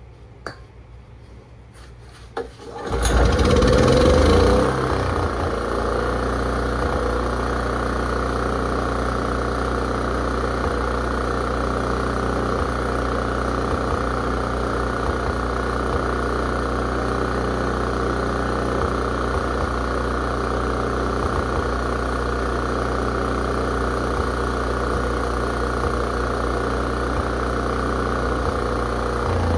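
Honda EM3000 generator engine starting after two clicks: it catches about three seconds in, runs fast briefly, then settles into a steady run. This is its first start after sitting unused for over 35 years.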